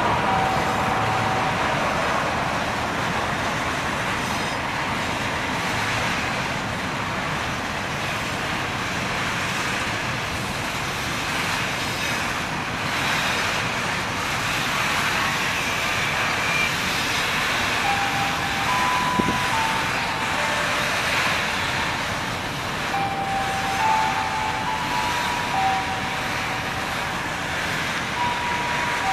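Container freight train rolling past: a steady rolling noise of wheels on the rails, with short, high wheel squeals at a few different pitches, once near the start and several times in the second half.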